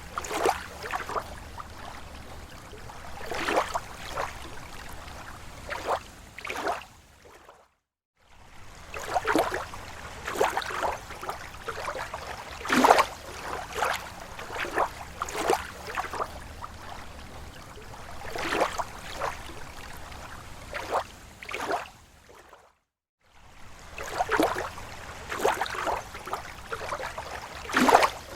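Small, slow waves lapping at a lake shore: irregular soft splashes and slaps of water. Twice the sound briefly fades to silence and back.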